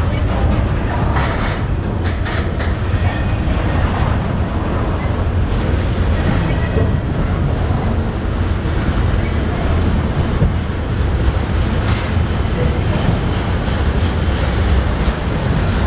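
Double-stack intermodal freight train's well cars rolling past: a steady, loud rumble of steel wheels on rail with occasional clicks.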